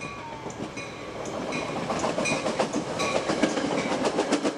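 A passing train's wheels clicking rhythmically over rail joints, growing louder and quicker as it comes closer.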